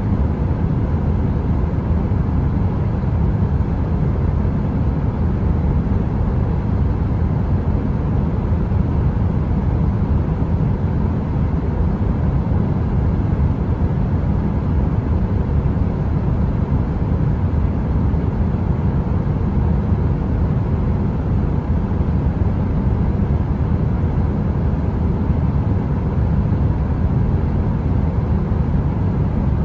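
A heater running: a steady, deep rumble of noise with a faint even hum, unchanging throughout and with no crackle.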